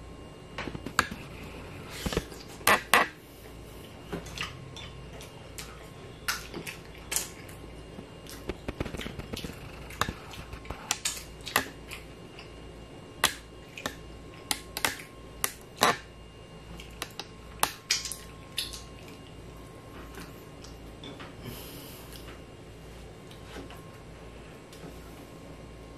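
Close-miked eating of fried Filipino street food such as fish balls: irregular wet mouth clicks and crackly chewing, with a few louder, sharp smacks about 1 to 3 seconds in.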